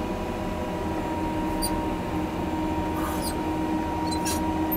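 John Deere 670G motor grader's diesel engine running steadily under load while blading, with a few short high squeaks from the machine scattered through it.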